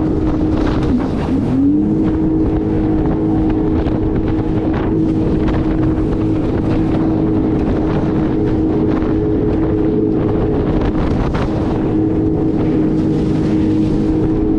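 Jet ski engine running at a steady speed, with wind on the microphone and water noise. About a second in the engine note drops briefly, then climbs back.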